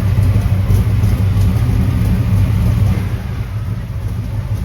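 1980 Camaro's 350 small-block V8 running steadily through newly fitted headers, with a deep exhaust note that eases off slightly about three seconds in.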